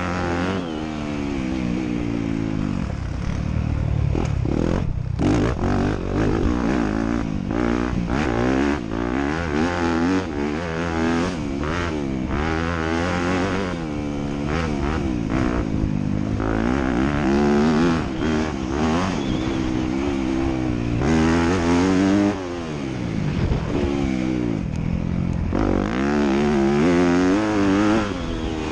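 Motocross bike engines racing, the revs rising and falling again and again with throttle and gear changes.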